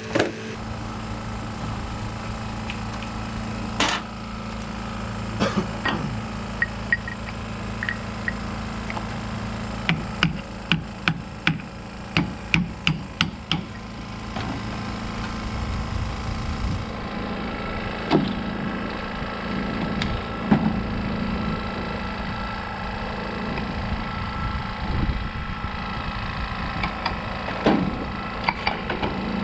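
Metal tools knocking and tapping on differential parts: scattered single knocks, and about a second after ten seconds in, a quick run of about eight sharp taps, like a hammer. A steady low hum runs underneath.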